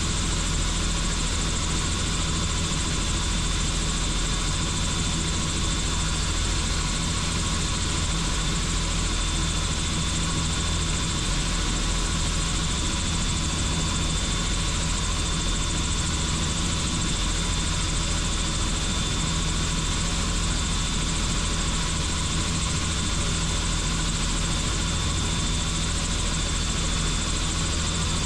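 Helicopter in steady flight, heard from on board: constant engine and rotor noise with a thin, steady high whine over it.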